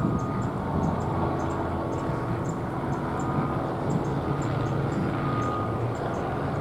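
Steady rumble of engine noise outdoors, a low hum under an even wash of noise, with faint high ticks scattered through it.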